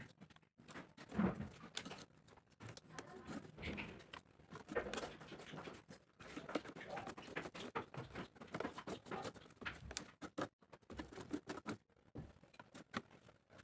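Cardboard being handled at close range: irregular scratching and rustling with small clicks and light knocks.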